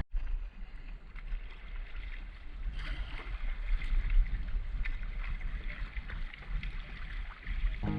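Water splashing and lapping around a canoe on the move, with small irregular splashes over a low steady rumble of wind on the microphone.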